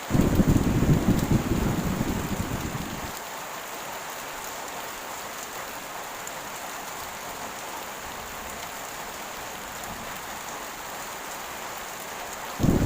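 Heavy rain falling steadily, with thunder rumbling low and loud for about the first three seconds and another roll of thunder starting just before the end.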